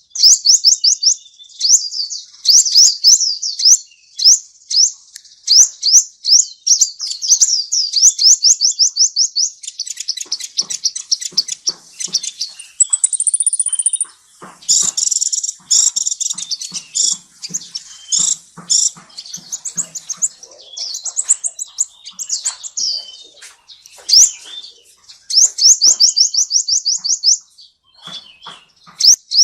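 A songbird singing in quick runs of sharp, high chirps, about six notes a second, each run lasting a few seconds with short pauses between. About halfway through there is a brief thin, higher whistle, and faint clicks and taps sound under the song for several seconds.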